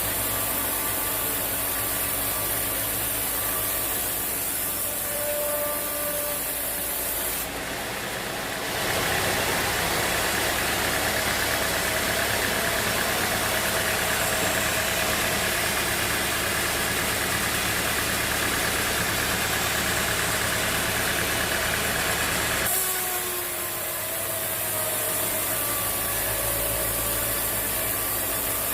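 Band sawmill's engine running steadily, with a louder, rougher stretch of blade-cutting noise starting about eight seconds in and stopping abruptly about 23 seconds in.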